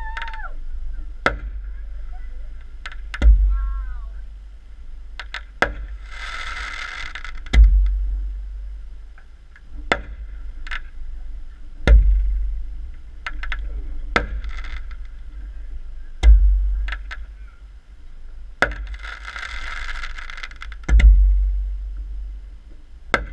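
Fireworks show: aerial shells bursting with deep booms about every four seconds, with many sharp cracks between them and two stretches of hissing crackle, one about six seconds in and one about nineteen seconds in.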